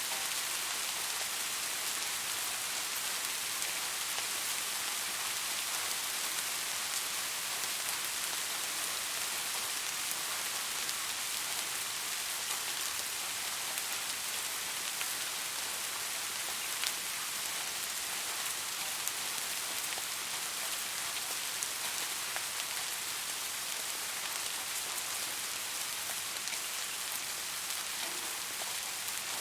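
Steady rain falling, an even hiss filled with many small drops pattering on a surface.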